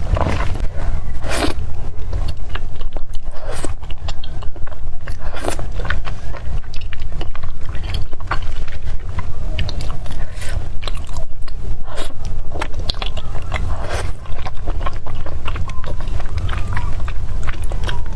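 A person eating close to the microphone: repeated wet chewing and mouth clicks at an irregular pace, over a steady low hum.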